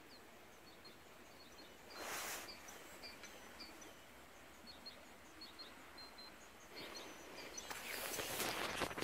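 Faint chirping and twittering of small birds throughout, with two brief stretches of rustling noise, one about two seconds in and a longer, louder one near the end.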